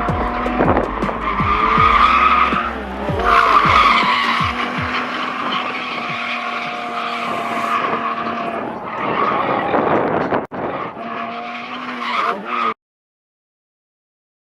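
Drift car sliding, its tires squealing steadily over an engine whose revs keep rising and falling. The squeal lets up briefly about 3 s in and again about 9 s in. Near the end the sound cuts off abruptly to silence.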